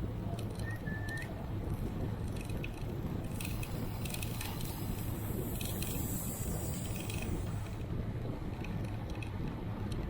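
Steady low rumble of wind and road noise on a bicycle ride, with scattered light clicks and a short high chirp about half a second in.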